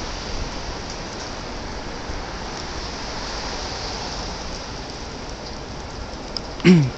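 Steady hiss of rain falling outdoors, with a short, loud sound falling in pitch near the end.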